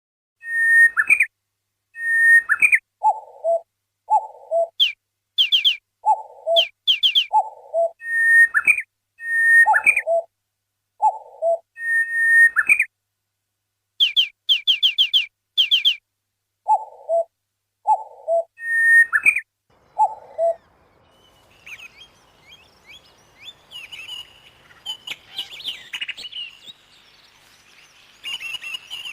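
Short whistled bird calls repeated over and over, each a brief chirp or quick run of rising sweeps, with complete silence between them. About twenty seconds in they give way to fainter, continuous, busier chirping.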